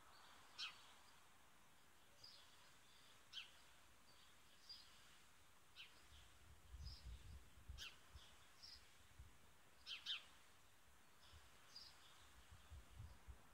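Faint background bird chirps: short high calls scattered about every second or so. A low rumble comes in briefly about halfway through.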